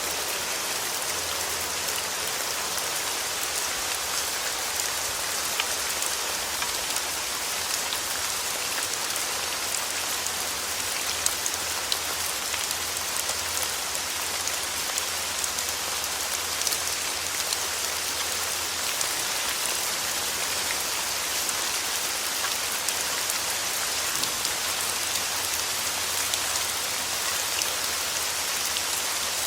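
Steady rain falling: an even hiss with many small drop ticks scattered through it, used as a sleep-aid sound.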